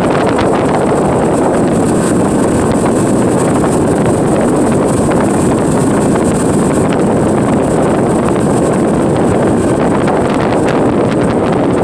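Tour boat's motor running steadily under way, a loud, even drone, with wind buffeting the microphone.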